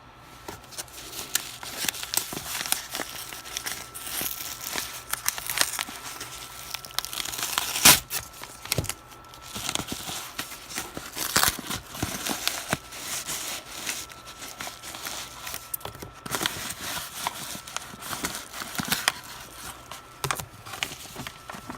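A mail package being torn open and its packaging handled, with irregular crinkling and rustling and a sharp rip about eight seconds in.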